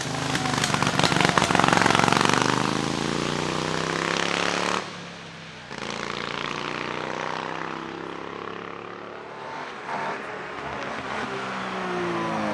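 Vintage racing car engine under hard throttle, loud and with its pitch falling as it passes. About five seconds in the sound drops away, and another engine carries on with its pitch falling, then rising again near the end.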